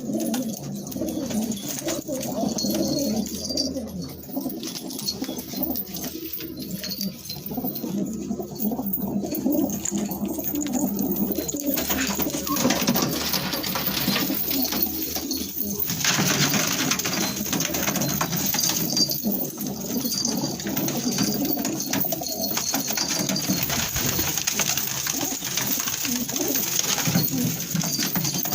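Many domestic pigeons cooing together in a loft, a dense, continuous, overlapping cooing.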